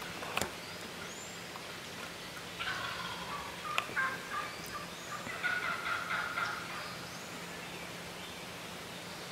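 Wild turkey gobblers gobbling several times in a row, in rattling bursts about three seconds in and again from about five to six and a half seconds, with a sharp click near the start.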